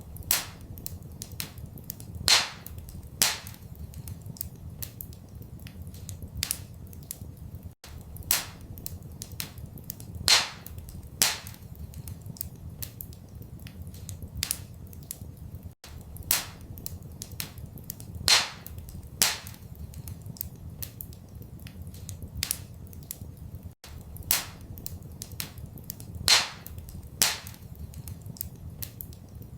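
Wood fire crackling in a fireplace: irregular sharp pops and snaps, a few louder than the rest, over a steady low rumble. The pattern repeats about every eight seconds, with a brief dropout at each repeat.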